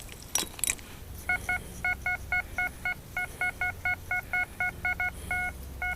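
Makro Racer metal detector giving a run of short, clipped beeps, about three a second, starting about a second in as the coil is swept back and forth over a buried target, a signal the detectorist reads as a quarter.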